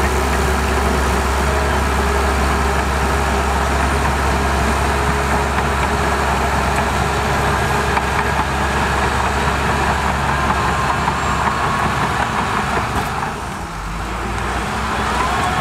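Heavy diesel earthmoving machinery running steadily with a deep low rumble, easing off briefly about two-thirds of the way through and picking up again near the end.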